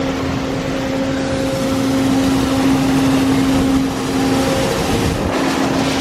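Car wash pump motor running: a steady hum under a loud, even hiss of water and machinery.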